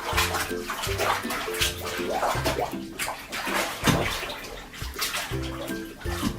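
Water sloshing in a bathtub as a soapy bed cover is trodden underfoot to rinse out the soap. Background music plays over it.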